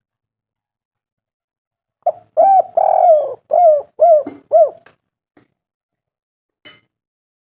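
Spotted dove (tekukur) cooing: one phrase of about six hoarse coos starting about two seconds in, the third note held longest.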